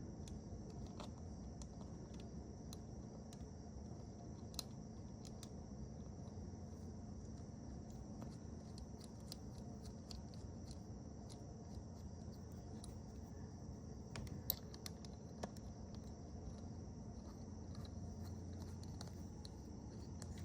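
Faint steady shop hum with a thin high whine, broken by a few small clicks and taps of hand tools on engine parts, sharpest about four seconds in and again a little before the middle of the second half.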